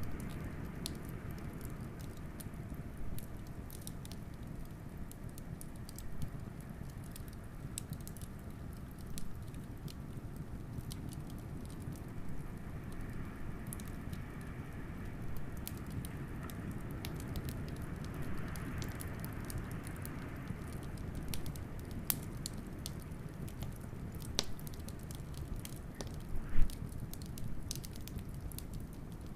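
Wood fire crackling with scattered snaps and pops over a steady low rush of blizzard wind, which swells into a faint howl around the middle. One loud pop comes near the end.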